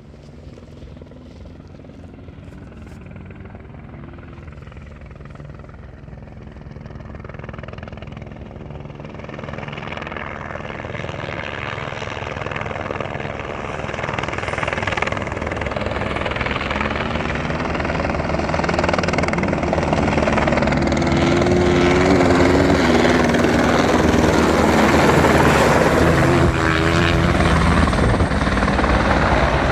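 Helicopter rotor growing steadily louder as it approaches over about twenty seconds, then staying loud overhead. A rally motorcycle's engine note wavers briefly under it about two-thirds in and again near the end.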